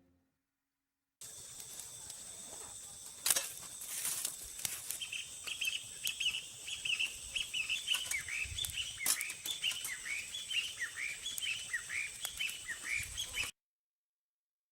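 Birds chirping outdoors, many short high calls following one another several times a second over a steady high tone. A few sharp clicks or knocks cut in, the loudest a few seconds in.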